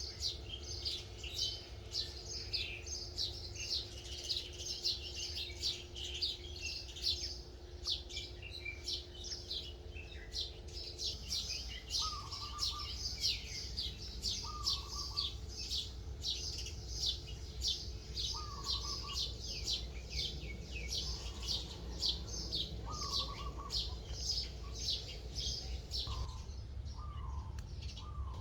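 Birds chirping and twittering without pause in rapid high notes. About halfway through, a lower short call starts repeating every couple of seconds. A low steady hum runs underneath.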